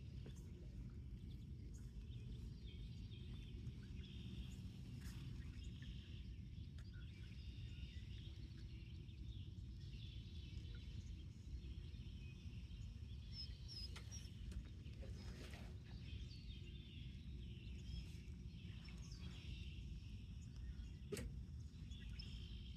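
Outdoor ambience: a steady low rumble with faint, scattered bird chirps and a few light clicks.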